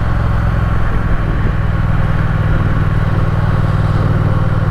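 Triumph Speed Twin's parallel-twin engine running steadily at low revs, close to idle, with no change in pitch.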